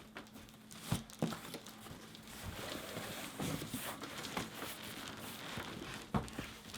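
Cardboard shipping boxes being handled and pulled apart: rustling and scraping cardboard with a few sharp knocks, as a heavy inner box is worked out of a stapled outer box.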